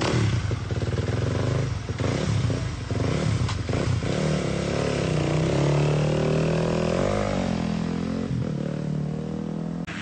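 Motocross bike engine revving: the throttle is blipped repeatedly for the first few seconds, then the engine note rises and falls in a longer pull.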